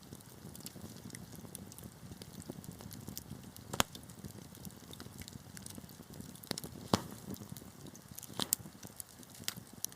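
Wood fire burning in a fireplace: a steady low hiss with scattered sharp crackles and pops, the loudest about four, seven and eight and a half seconds in.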